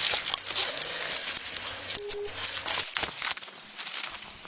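Rustling, crinkling noise with scattered knocks, and a short electronic beep about two seconds in.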